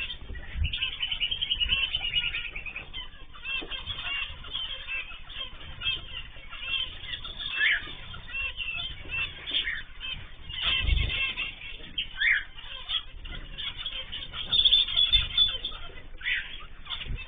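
Cage birds chirping and calling continuously, a mixed aviary flock of cockatiels, canaries and zebra finches, with a few low thumps.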